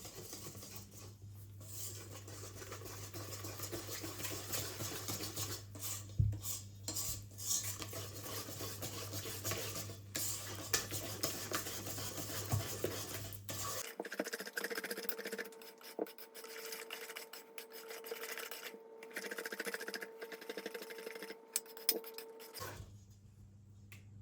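Kitchen utensils scraping, stirring and clinking against dishes, with scattered sharp knocks. In the second half a steady faint hum sounds under the scraping.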